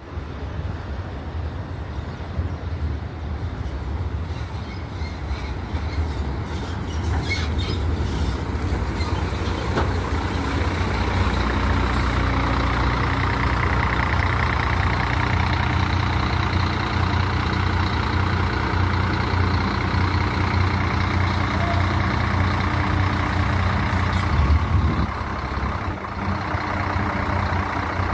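Scania diesel bus engine running, its low drone growing louder over roughly the first ten seconds and then holding steady. About 24 seconds in there is a brief louder burst with a hiss.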